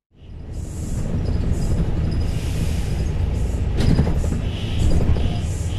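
Rail train running: a loud, steady low rumble with intermittent high-pitched squeals from the wheels, starting abruptly.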